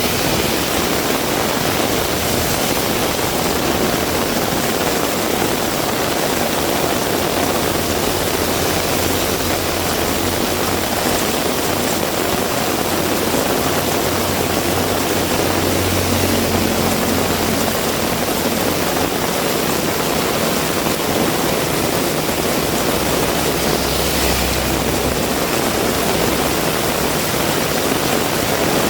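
Heavy rain pouring steadily, a dense, even hiss. A faint low hum rises under it about a third of the way in and fades again, and returns briefly later on.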